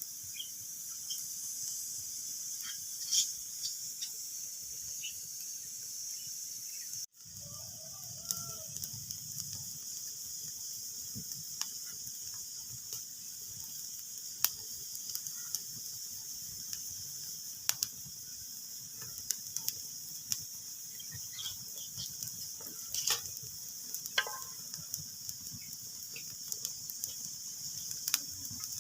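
Wood fire crackling: a steady hiss with scattered sharp pops, a few of them louder. The sound cuts out for an instant about seven seconds in.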